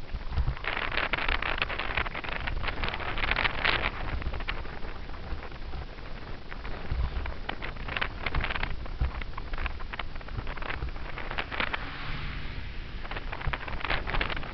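Wind rushing over a helmet-mounted camera's microphone as a bicycle coasts downhill, over a low rumble of tyres on the road, with frequent small rattles and clicks from bumps in the pavement.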